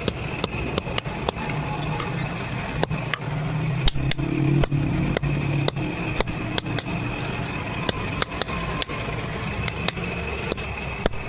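Hammer blows on iron, struck about two to three times a second in a steady rhythm, over a continuous low hum.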